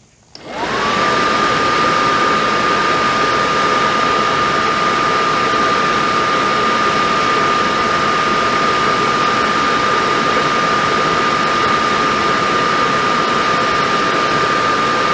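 Suburban SF-30 RV furnace switched on for a test fire: its blower motor starts about half a second in, spins up within a second with a rising whine, then runs steadily with a rushing of air.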